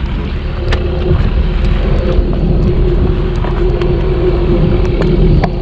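Tow truck engine running, with a steady whine held throughout, under heavy low rumble of wind on the microphone and scattered sharp clicks.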